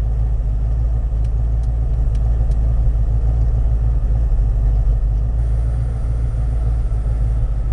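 1980 Ford F-100's 302 V8 idling steadily with a low rumble while still warming up from a cold start, with a few faint clicks about one to two and a half seconds in.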